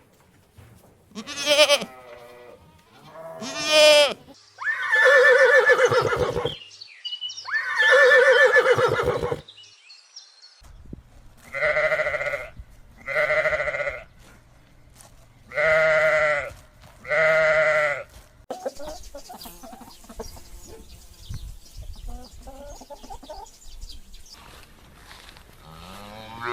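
Goats bleating: a few short bleats, then two long wavering bleats of about two seconds each, then four shorter bleats of about a second each. Quieter, scattered sounds fill the last several seconds.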